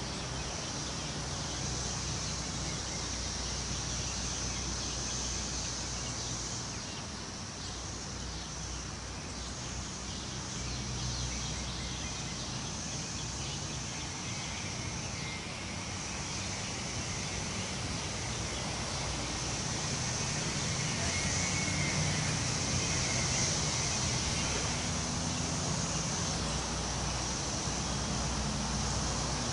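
Wind moving through forest trees: a steady rustling haze that swells and eases slowly. Under it run a constant high-pitched drone and a low rumble.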